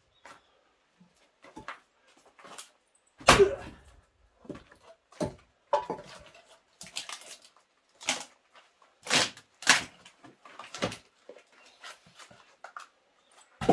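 An axe splitting mountain cherry firewood rounds: a series of about a dozen sharp cracks and knocks of blade and wood, the loudest about three seconds in.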